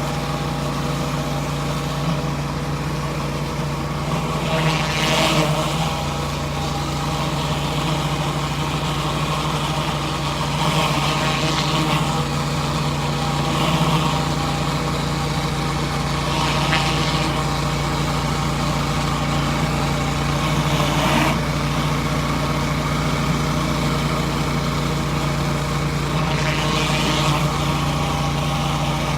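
Pressure washer engine running at a steady speed, driving a surface cleaner. A hissing noise swells briefly every few seconds over the hum.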